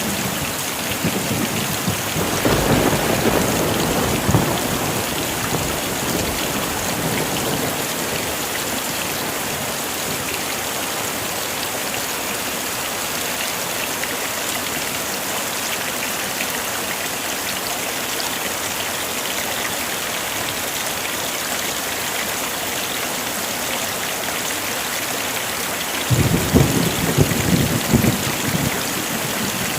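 Heavy rain falling steadily, with rumbles of thunder about two seconds in and again near the end.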